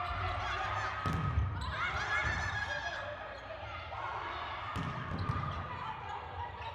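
Volleyball match in an indoor arena: low thuds about one and five seconds in, against voices calling in the echoing hall.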